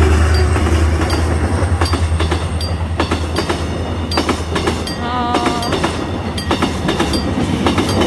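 Saemaul-ho passenger train passing at close range, its wheels clicking over the rail joints. A low engine drone at the start fades over the first few seconds. A brief squeal comes about five seconds in.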